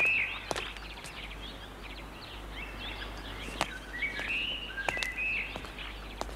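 Birds singing in the background: a short chirping phrase right at the start and another about four seconds in. Scattered light clicks and a steady low hum run underneath.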